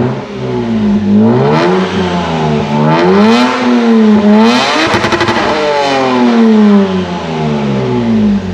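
Lexus IS200's 2.0-litre straight-six revved hard several times through a twin-exit exhaust with no rear silencer: short blips, then one rev about five seconds in that bounces briefly off the rev limiter before the revs fall slowly back toward idle.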